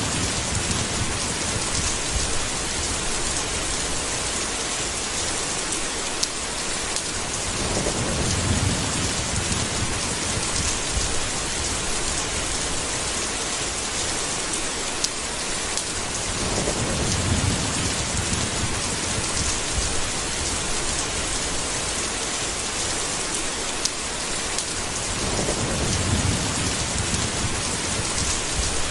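Steady rain hissing throughout, with low thunder rolling in at the start and again about every eight or nine seconds, three more times.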